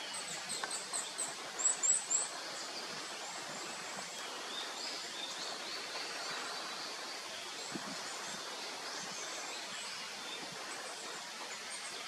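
Birds chirping in quick series of short, high notes, loudest about two seconds in, over a steady hiss of outdoor background noise.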